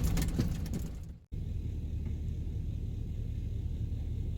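Van driving, heard from inside the cab: a steady low rumble of engine and road noise. The sound cuts out abruptly for a moment about a second in, then resumes steady.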